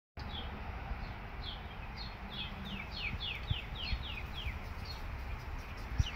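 A songbird singing a run of about a dozen short down-slurred notes, a few a second and quickest in the middle. Underneath is a steady low rumble, with a few soft low thumps.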